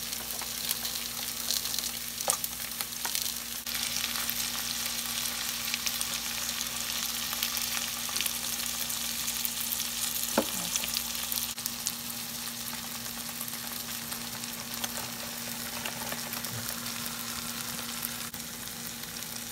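Onions, garlic and green chillies sizzling in oil in a stainless steel kadai, with a few clicks of a metal slotted spoon against the pan.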